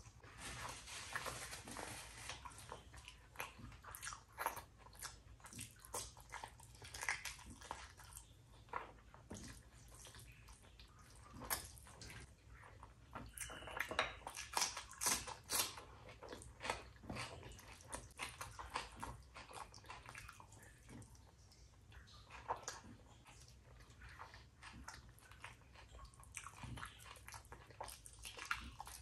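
A person chewing and biting rice and curry close to the microphone: a steady run of short, sharp mouth clicks and crunches, loudest about halfway through.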